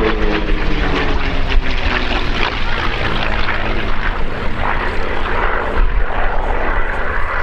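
V12 Merlin engine of a P-51D Mustang flying past, its pitch falling in the first second as it goes by, then a steady, rough propeller drone.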